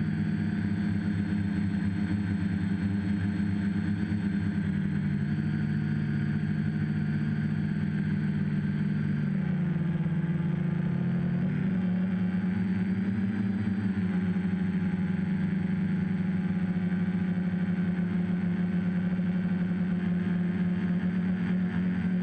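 RC copter's electric motors and propellers running in flight, a steady buzzing hum with several tones. Around ten seconds in the pitch dips and wavers briefly as the throttle changes, then settles again.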